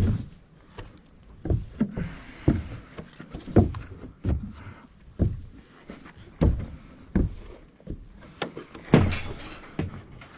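Heavy footsteps going down, about one thud every second or less.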